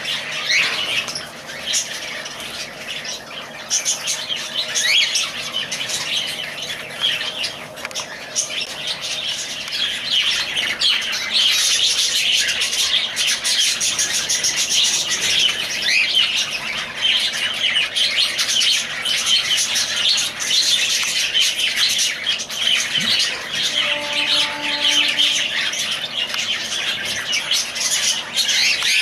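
A group of lovebirds chattering and chirping nonstop, a dense overlapping stream of short, high calls that grows busier and louder about a third of the way in.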